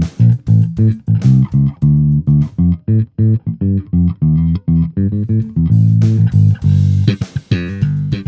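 Electric bass played through an Ampeg Rocket Bass RB-110 50-watt combo amp, a quick run of plucked notes with sharp attacks. Longer held notes come in about two-thirds of the way through.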